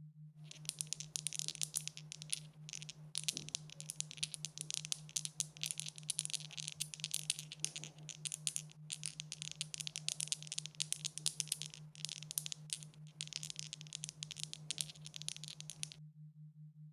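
Dice rattling: a long run of small, quick clicks with a few brief pauses, stopping about a second before the end. A steady low hum runs underneath.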